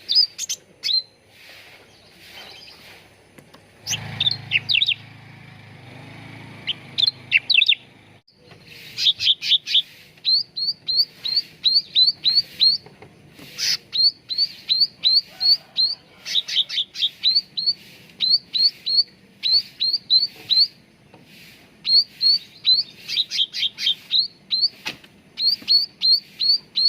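Cucak ranting songbird calling: rapid runs of short, high chirps, each a quick downward-sweeping note, repeated several times a second in bursts with brief pauses between them.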